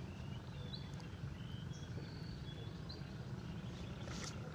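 Quiet outdoor ambience: a steady low rumble with a few short, high bird chirps scattered through it.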